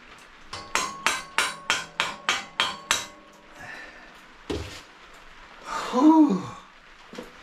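About ten quick hammer taps, roughly four a second, driving an engine mounting bolt through the frame and engine mounts. Then a single dull thump and a short pitched groan that rises and falls.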